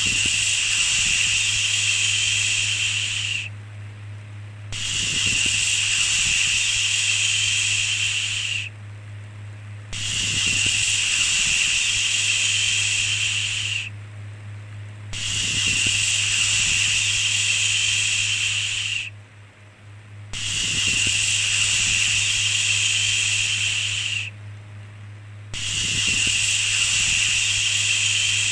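Repeated long shushing 'shhh' sounds, each about four seconds long with a short pause between, six in all, over a steady low hum.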